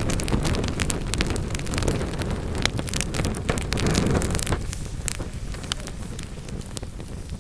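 Wood fire burning in a fireplace: a low roar of flame with many sharp crackles and pops from the burning logs. The low roar eases off a little after about four and a half seconds while the crackling goes on.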